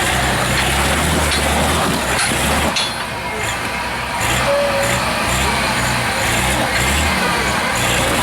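Heavy off-road competition truck's diesel engine working hard over the course, its low rumble rising and falling unevenly as the throttle opens and closes.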